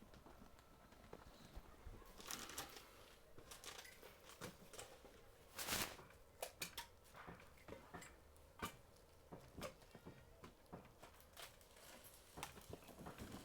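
Mostly near silence, broken by faint scattered clicks and taps, with one louder brief rush of noise about six seconds in.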